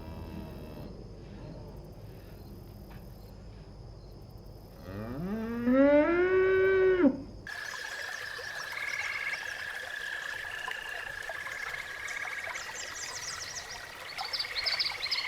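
A cow moos once, loudly, about five seconds in: one long call that rises in pitch and then holds for a couple of seconds. After an abrupt cut it gives way to a steady high trill with scattered chirping calls, like frogs or insects calling.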